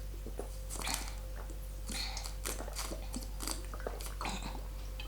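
A person chewing a mouthful of carbonara pasta, with irregular wet mouth clicks and smacks.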